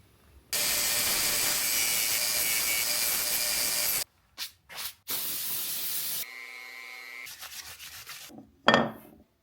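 Big belt sander grinding a thick wooden spoon blank, heard in several abruptly cut stretches: a long spell of loud sanding noise, short bursts, then a steady tone from the machine, and a brief loud burst near the end.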